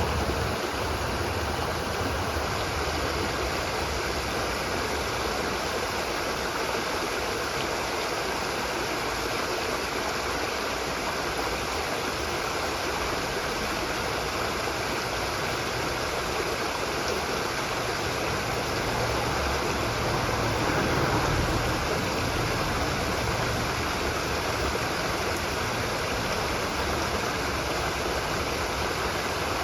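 Steady rush of running water, like a stream, swelling slightly a little after the midpoint.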